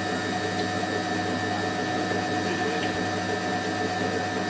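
Hoover Electron 1100 washing machine spinning at a steady speed: an even motor whine made of several constant tones over a smooth rush from the drum.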